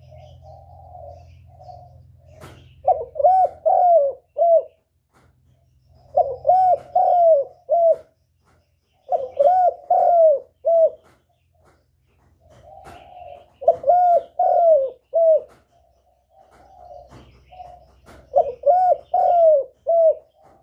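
Spotted dove cooing: about five phrases, each of four or five quick coos that rise and fall in pitch, with soft murmuring notes between the phrases.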